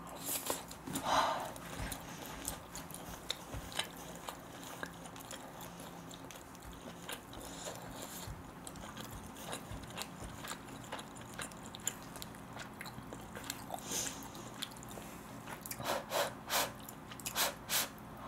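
A person chewing a mouthful of rice: soft mouth and chewing sounds with many small clicks, a brief louder moment about a second in and a flurry of clicks near the end.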